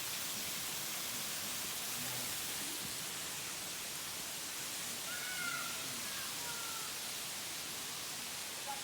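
Steady rush of falling water from a waterfall running at light, dry-season flow. A few faint high chirps come about five to seven seconds in.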